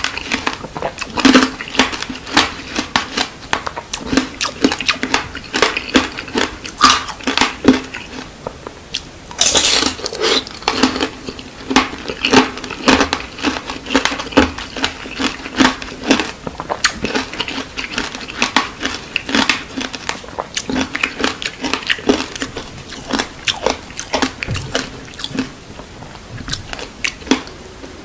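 Close-miked biting and chewing of candied fruit, its sugar coating cracking in a quick run of sharp crunches, with one longer, louder crunch about ten seconds in.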